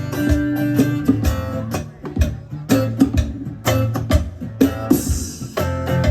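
Live band music: guitar playing a rhythmic, plucked instrumental passage over sustained bass notes, with a brief burst of high hiss about five seconds in.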